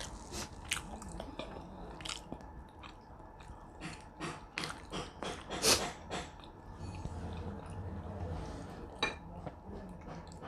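Close-up chewing and biting of food, with irregular crunchy clicks, thickest in the first six seconds and loudest about six seconds in.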